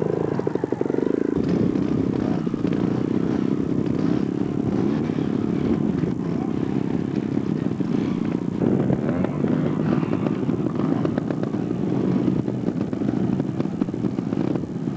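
A vehicle engine running steadily and loudly close by, with a fast, even pulsing to its sound.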